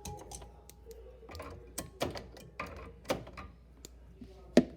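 Handling noises of a metal retaining wire clip and parts being pried off at a refrigerator compressor: scattered clicks, scrapes and knocks, with the sharpest knock near the end.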